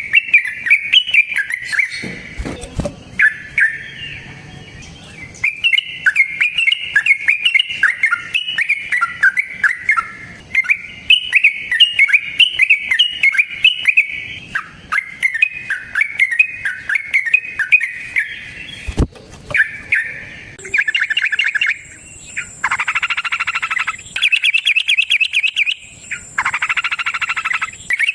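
Yellow-vented bulbul (trucukan) singing a long, fast run of chattering notes. In the last third the song turns into rapid buzzy trills in bursts. A couple of brief low thumps break in early and past the middle.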